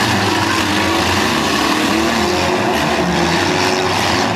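Several demolition derby car engines running and revving at once, their pitches wavering up and down over a steady din.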